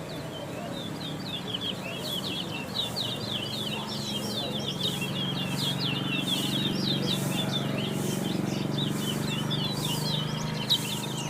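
Caged brown towa towa finch singing a fast, unbroken run of quick high chirps and twitters. A low steady hum sits underneath and grows louder about four seconds in.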